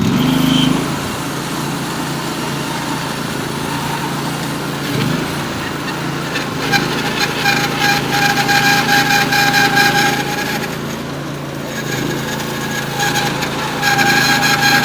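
Norwood HD36V2 portable bandsaw mill running under load, its band blade cutting through a 36-inch poplar log at the mill's maximum width. A steady engine hum runs throughout, and from about six seconds in a steady high whine rises over it, with rough, rattling stretches at times.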